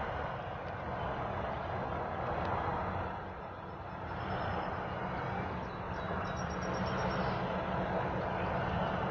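Steady low rumbling noise, with a brief trill of rapid repeated high notes from a bird about six seconds in.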